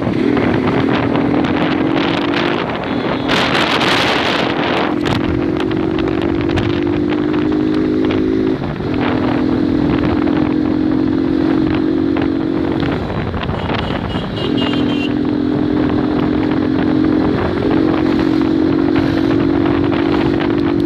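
Motorcycle engine running under way while being ridden, its pitch creeping up and then dropping back several times, with wind noise on the microphone. A short hissing burst comes about three seconds in.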